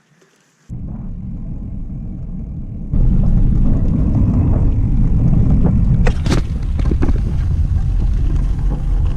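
Loud low rumble that starts abruptly about a second in and grows suddenly louder and fuller about three seconds in, with a few sharp knocks partway through.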